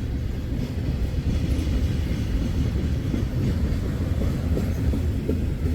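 CSX freight train's cars rolling past, a steady low rumble of steel wheels on the rails.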